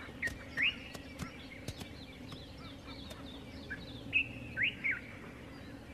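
Bird chirps: short rising calls in two small clusters, just after the start and again about four seconds in, over a faint steady background with a few light clicks.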